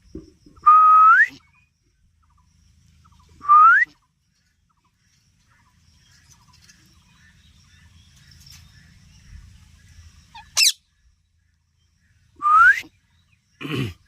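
Parrot whistling: three rising whistles, the first held on one note briefly before sweeping up. A short, sharp chirp comes about two-thirds of the way through.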